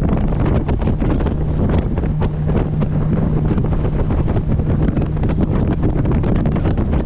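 A boat's engine running steadily under way, buried in heavy wind buffeting on the microphone, with water rushing past the hull.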